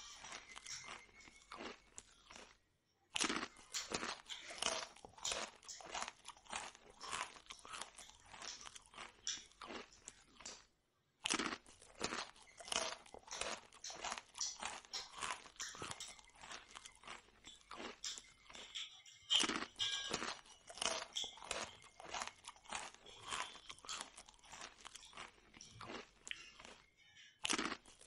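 Close-miked chewing of fried puri bread: a dense, irregular run of crisp crunches and wet mouth sounds. The sound drops out briefly a few times.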